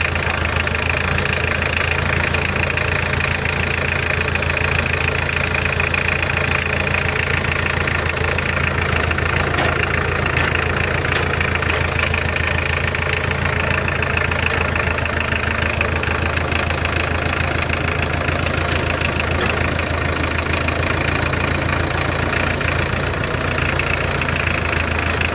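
Old International Harvester Farmall diesel tractor engine running steadily at low speed as the tractor drives slowly.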